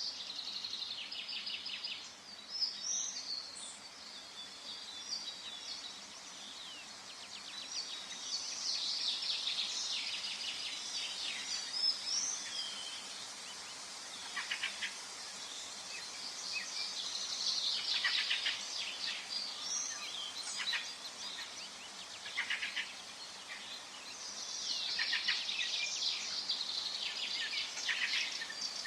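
Forest ambience: several songbirds chirping and trilling in repeated bouts of rapid high notes over a soft steady background hiss.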